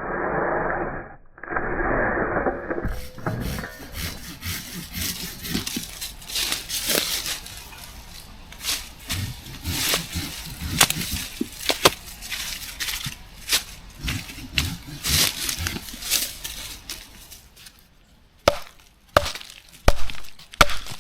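Dry wood being snapped and broken, a run of irregular sharp cracks with several loud snaps close together near the end.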